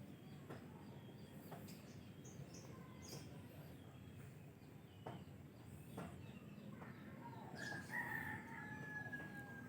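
A rooster crowing: one long drawn-out call that begins about seven and a half seconds in, over a faint background with a few soft clicks.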